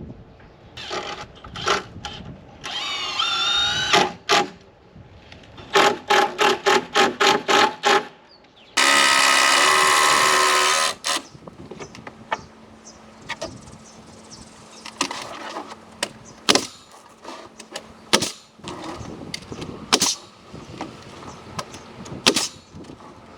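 Power drill running in short bursts as it drives screws into spruce timber. A quick string of bursts comes midway, then one longer steady run, followed by scattered knocks and clicks of wood and tools.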